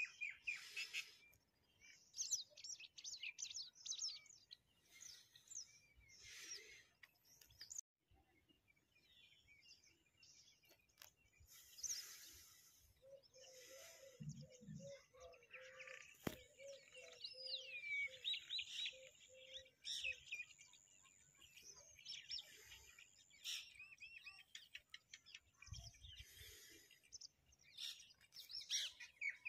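Birds chirping and singing: quick, high chirps, trills and whistles come and go, and midway a lower note repeats several times for a few seconds.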